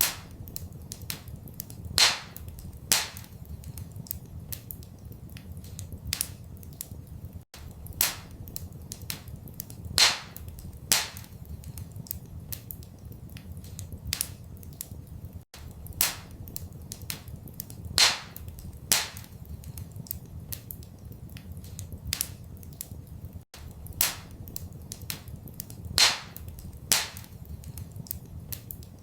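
Wood fire crackling in a fireplace: a steady patter of small snaps with a louder pair of pops every eight seconds, the same pattern repeating, over a steady low rumble.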